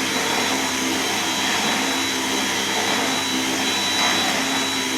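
Dyson cordless stick vacuum running steadily with its motorised brush head plugged directly onto the main body, without the wand, with a constant high whine. It runs without cutting out, which points to the wand's power connection as the cause of the intermittent brush head.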